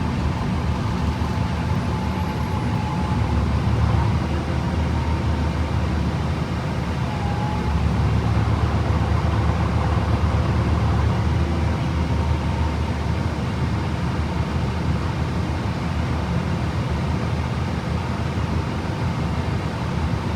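A 2011 Gillig BRT transit bus with a Voith transmission, heard from inside while it drives: steady engine, drivetrain and road noise, with a faint thin whine above it.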